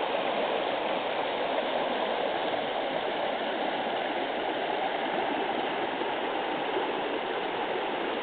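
A rain-swollen brook rushing fast over rocks, a steady churning flow of water.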